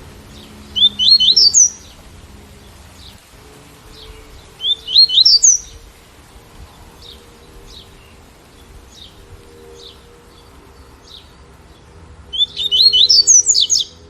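Double-collared seedeater (coleiro, tui-tui song type) singing three short, loud phrases of quick rising notes, with fainter single chirps between them, over a steady background of rain sound.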